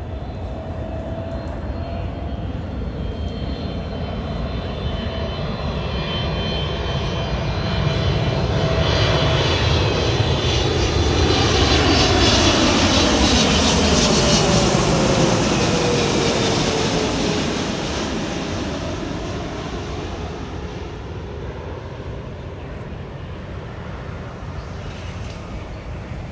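Boeing 777-300ER's twin GE90 turbofan engines as the jet passes low overhead on landing approach. The jet noise swells to a peak about halfway through, then fades, and the engines' whine drops in pitch as the aircraft goes by.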